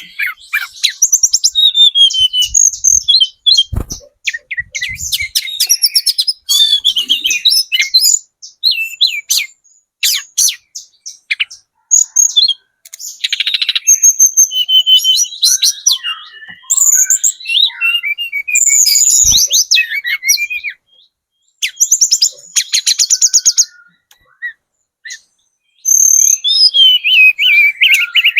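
Young tledekan gunung singing a long, varied run of quick, high chirps and rapid trills in phrases, with brief pauses between them. It is a lure song, played to get other birds to answer.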